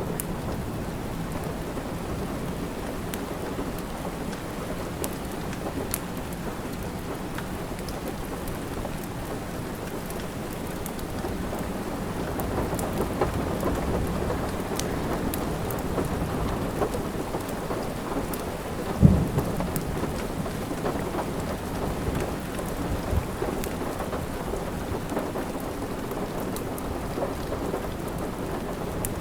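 Steady rain with rolling thunder that swells about halfway through, and a sharp low thump about two-thirds of the way in. Fireplace crackles tick faintly over the rain.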